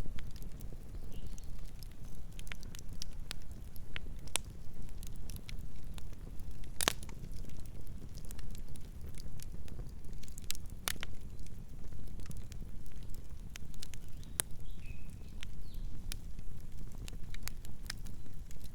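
Wood campfire crackling, with irregular sharp pops and snaps over a low steady rumble. One pop about seven seconds in is the loudest.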